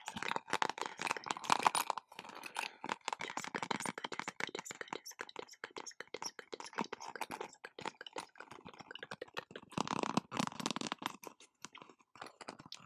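Close-miked ASMR trigger sounds: a dense run of quick crackling clicks and scratches, louder in stretches near the start and again near the end.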